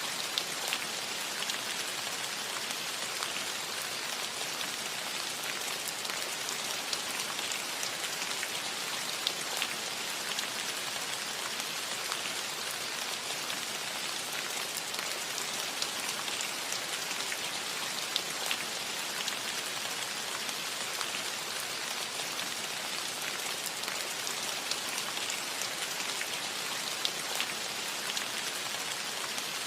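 Steady rain falling on a metal roof, an even patter with scattered louder individual drop ticks.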